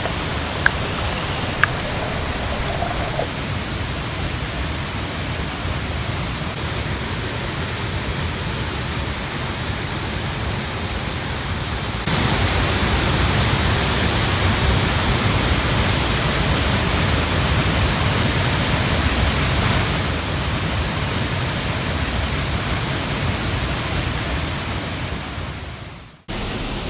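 Steady rush of water pouring over a river waterfall. It jumps louder about twelve seconds in, eases a little later, then fades out abruptly near the end. Two small clicks come near the start.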